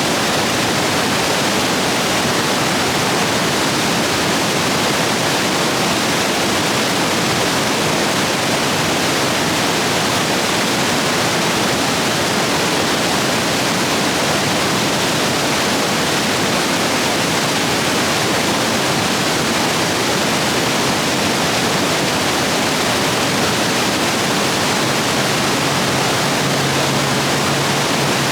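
Rapids of a rain-swollen stream rushing steadily.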